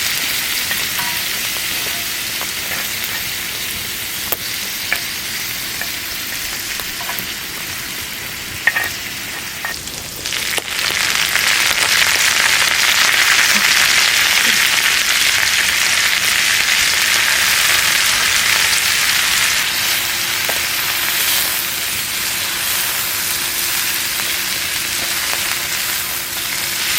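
Food sizzling and frying in a hot pan, a steady hiss with a few light clicks; the sizzle grows louder about ten seconds in.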